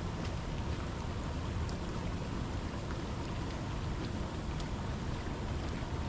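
Steady rain falling, with scattered sharp raindrop ticks close to the microphone over a constant low rumble.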